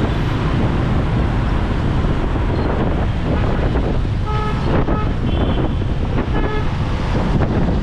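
Wind buffeting the action camera's microphone on a moving motorbike, over city traffic noise. Short horn toots sound twice, about halfway through and again a second or so later.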